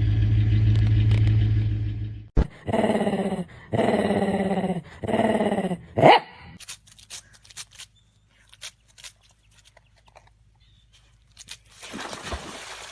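A dog vocalizing: a loud low rumble for about two seconds, then three drawn-out pitched calls of about a second each, and a short rising yelp. Scattered faint clicks follow.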